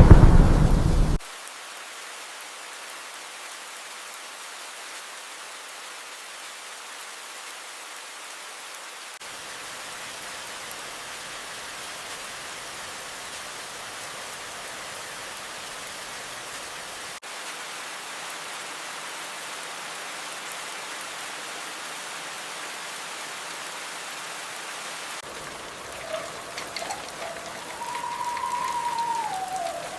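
Steady rain falling. About a second in, the tail of a loud thunder clap cuts off. Near the end a faint whistling tone wavers and then slides down in pitch over the rain.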